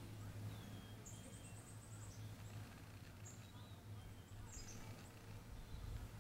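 Faint outdoor ambience: small birds chirping in short, high notes, with one quick trill about a second in, over a low steady hum.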